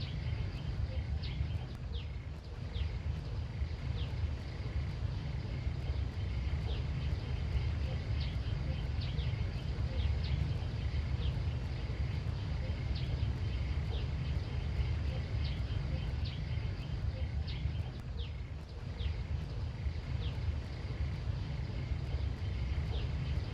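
Outdoor field ambience: a steady low rumble under short, high, downward-sliding bird chirps that repeat every second or two, with a faint steady high tone in the background.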